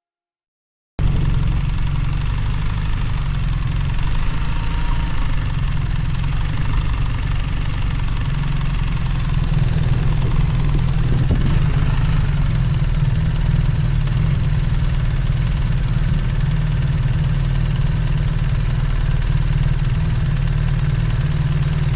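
BMW R1300GS boxer-twin motorcycle engine running steadily, heavy in the low end. It cuts in abruptly about a second in.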